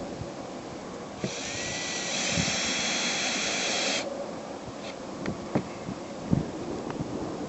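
Cordless drill running for about three seconds, a high whine that starts and stops suddenly as it drives a screw through the aluminium patch into the trailer roof. A few light knocks and clicks follow.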